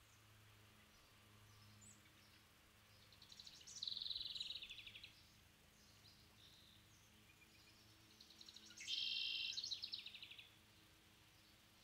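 A songbird singing twice, each song a rapid trill of fast repeated notes that trails off, over a faint steady low hum.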